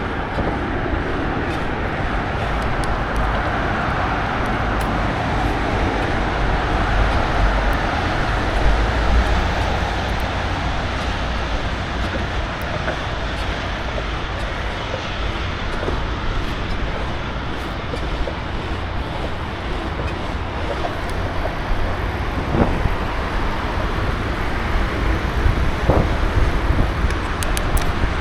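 Steady road and wind noise from riding a bicycle, with a low rumble of wind on the microphone and urban traffic around it; a few sharp knocks near the end.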